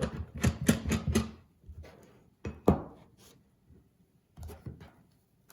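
Clicks and knocks of sharpening stones and their holder being handled while the stone is changed: a quick run of small clicks at the start, one sharp knock near the middle, and a few softer taps near the end.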